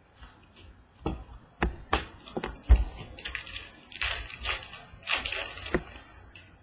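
Trading cards and pack wrappers being handled: a run of sharp taps and clicks mixed with short crinkling rustles.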